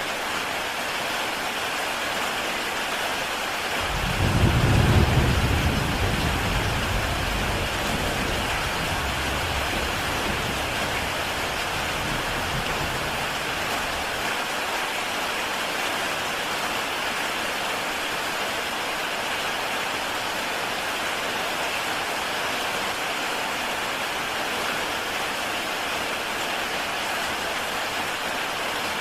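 Heavy rain falling steadily on a tile roof. About four seconds in, a deep rumble of thunder starts suddenly, is loudest a second later, and dies away over the next ten seconds.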